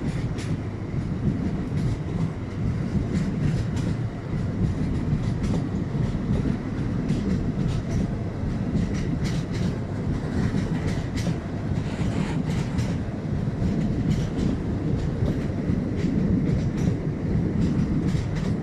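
Long train passing on an elevated track overhead: a steady low rumble with irregular clicks and clanks from the wheels.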